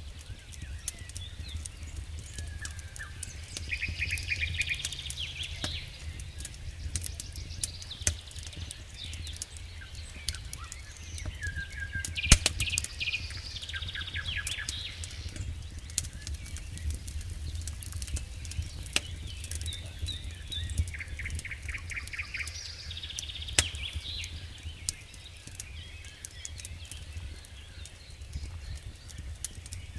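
Campfire crackling with scattered sharp pops, one louder pop about twelve seconds in. A songbird sings a repeated trilling phrase three times, over a steady low rumble.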